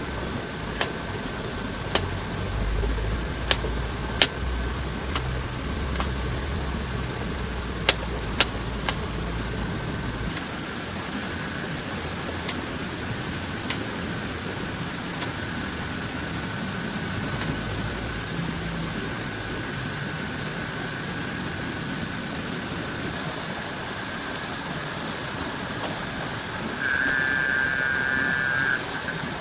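Steady heavy rain falling on a tent and tarp, with sharp drops striking it about once a second in the first nine seconds and a low rumble underneath for the first ten seconds. Near the end, a brief high steady tone lasts about two seconds.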